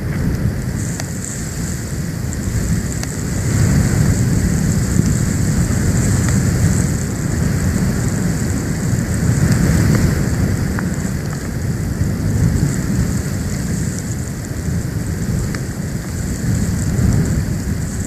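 Storm wind buffeting an outdoor nest-cam microphone during a snowstorm: a continuous low rumble that swells and eases in gusts, over a steady high hiss.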